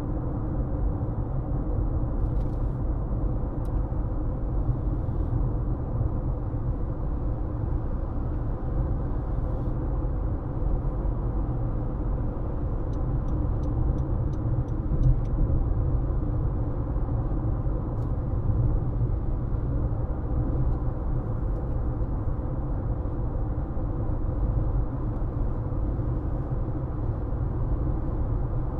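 Car driving at steady speed: continuous low road and tyre rumble with engine drone. A few faint, evenly spaced ticks come briefly about halfway through.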